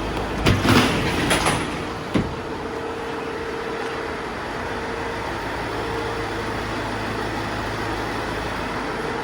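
Iveco Daily 2.3 diesel van engine idling steadily. Between about half a second and a second and a half in there is a short clatter of knocks, and a single sharp click comes about two seconds in.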